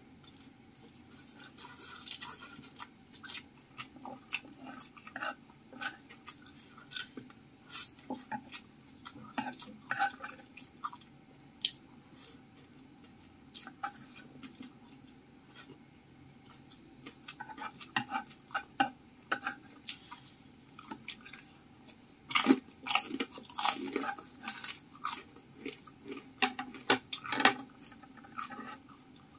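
Close-miked chewing of spicy fried instant noodles, with wooden chopsticks clicking and scraping against a bamboo serving tray. A denser run of sharp clicks comes in the last several seconds.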